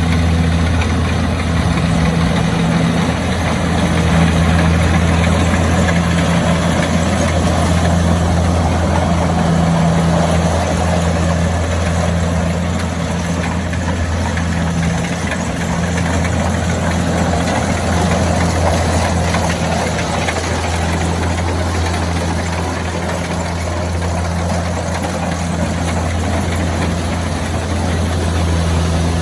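Combine harvester running steadily in a rice field: a constant low engine hum with an even mechanical rush over it.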